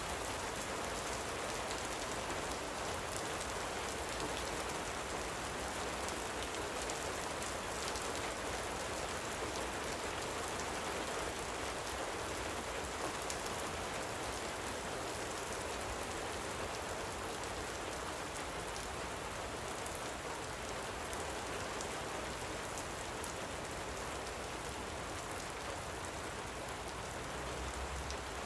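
Light rain falling steadily, a dense, even patter of drops.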